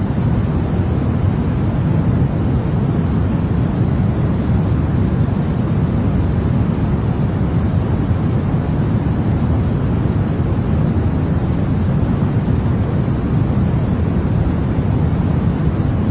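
Continuous white noise: a steady, even rush, strongest in the deep range and thinner in the highs, with no changes.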